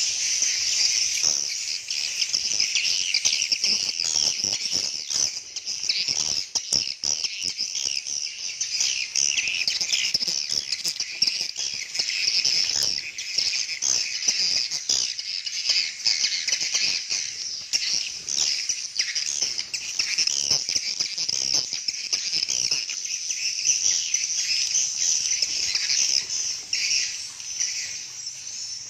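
Swiftlets calling: a dense, continuous chorus of many overlapping high twittering chirps, with scattered short clicks.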